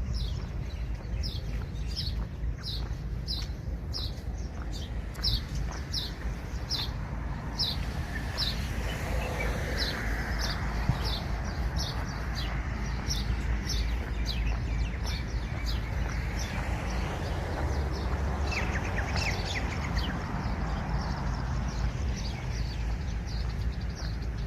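A bird calling over and over with a short, high, falling note, repeated about one and a half times a second, over a steady low rumble.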